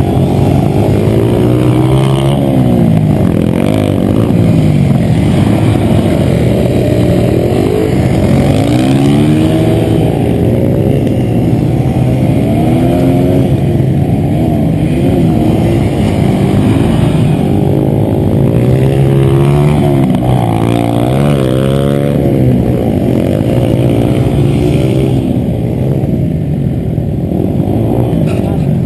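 Dirt bike engine revving up and down again and again, its pitch rising and falling with the throttle.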